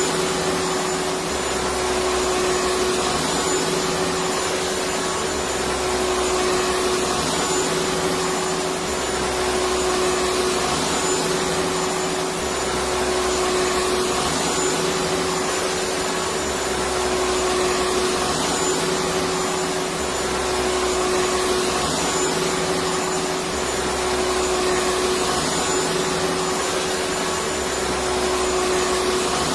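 Electric vacuum cleaner running steadily: a continuous motor hiss with a steady hum-like whine, and a low rumble that swells and fades every few seconds.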